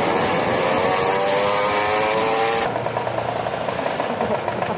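Mini motorbike engine revving up, its pitch rising steadily under acceleration; about two and a half seconds in the sound cuts abruptly to a different, rougher engine note.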